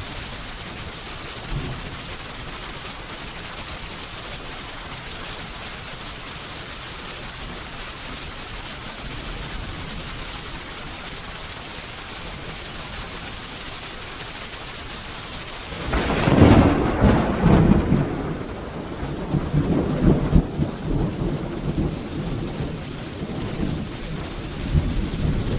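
Steady rain falling, an even hiss. About sixteen seconds in, a loud thunderclap breaks with a crackle and rolls on as a deep, uneven rumble for several seconds.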